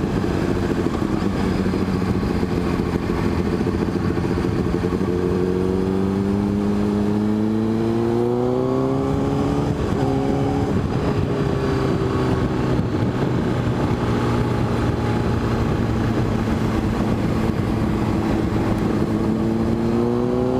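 Motorcycle engine under way, its note climbing steadily for several seconds as the bike accelerates, stepping about halfway through at a gear change, then rising slowly again, over steady wind noise.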